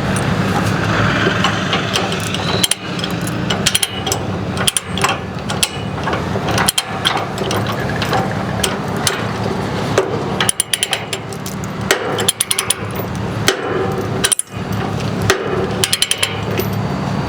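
Ratchet chain binder being worked to tighten a tie-down chain, with repeated sharp metallic clicks and clanks of chain at irregular intervals, over the steady running of an engine.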